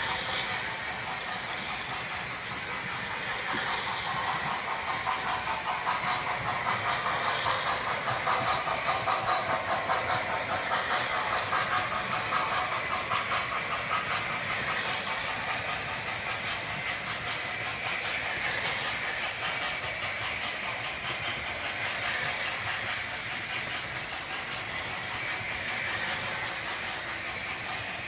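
O gauge model train running on the layout track, with a rapid, even clicking. It grows louder through the first half as the train comes close, then fades somewhat.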